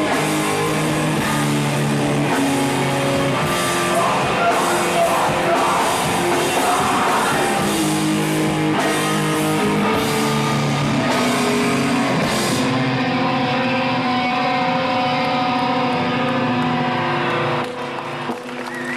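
Rock band playing live: distorted electric guitars, bass and drums with crashing cymbals. About two-thirds through, the drums stop and the guitar chords ring on alone, then the song ends just before the end.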